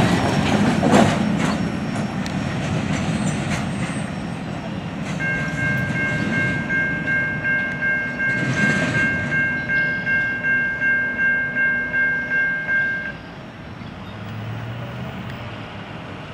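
Covered-hopper grain cars of a freight train rolling past on the rails, with wheel clatter and a few sharp clicks in the first seconds, fading as the train moves away. A railroad crossing bell rings in steady strokes about twice a second from about five seconds in, stopping about three seconds before the end.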